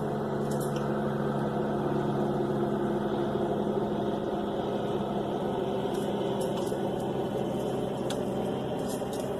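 A steady mechanical hum made of a few low, even tones, with no clear rhythm, like a motor or engine running at a constant speed.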